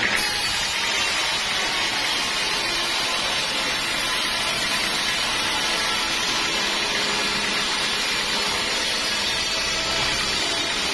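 Sawmill saw cutting through teak wood, a steady loud rushing noise with no pauses.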